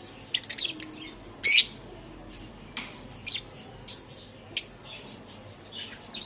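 Lovebirds giving short, shrill chirps and squawks at irregular intervals, about a dozen in all, with the loudest about one and a half seconds in.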